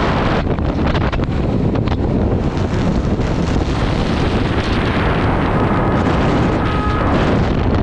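Heavy wind buffeting on a motorcycle rider's camera microphone at road speed, with the bike's engine running underneath.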